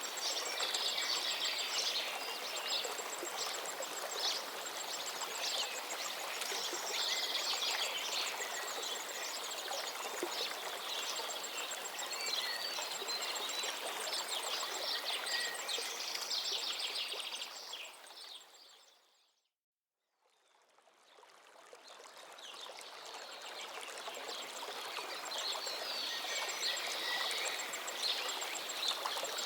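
River water running steadily with birds singing over it and a thin, high repeating note. About two-thirds of the way through the sound fades out to silence and then fades back in.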